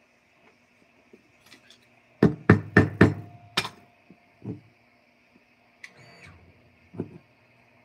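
A quick run of about five sharp knocks within a second and a half, then a few softer knocks, with a brief high squeak between them.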